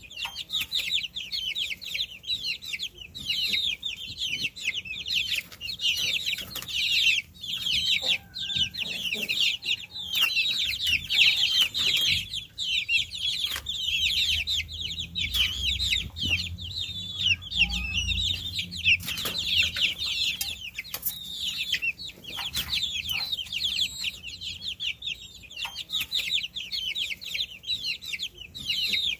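A crowd of baby chicks peeping continuously, many rapid high-pitched chirps overlapping, with a faint low rumble in the middle.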